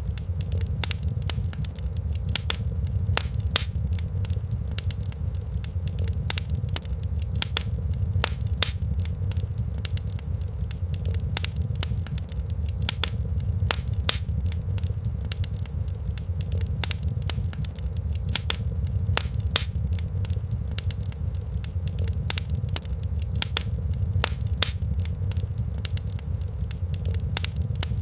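Wood fire in a fireplace crackling, with frequent sharp, irregular pops over a steady low rumble.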